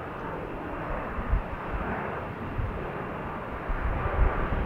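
Airliner jet engines heard from the ground: a steady rushing noise with a faint whine, overlaid by wind buffeting the microphone in low gusts.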